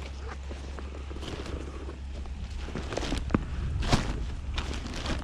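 Scattered rustles and clicks of a computer bag being handled and looked over, with two sharper knocks about three and four seconds in.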